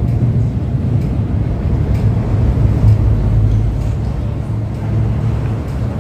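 MTR M-Train electric multiple unit running through an underground metro station: a steady low rumble that eases off slightly toward the end.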